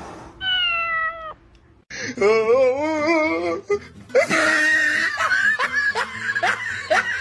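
Domestic cat vocalising: a short falling meow, then a long wavering yowl, followed by a quick run of short cries.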